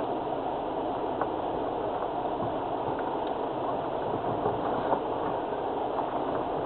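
Steady vehicle running noise heard from inside a Land Rover Freelander TD4 on a rough lane, with a few faint knocks.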